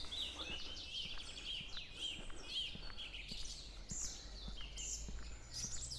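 Small birds chirping repeatedly in short, quick, downward-sliding notes, over a faint steady low background rumble.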